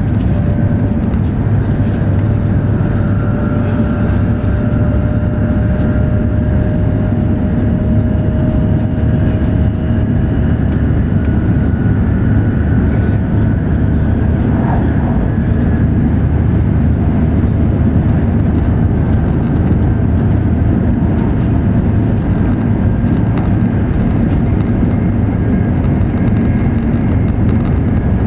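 E7 series Shinkansen running at speed, heard from inside the passenger cabin: a steady, loud low rumble of wheels and air noise with faint, thin whines above it.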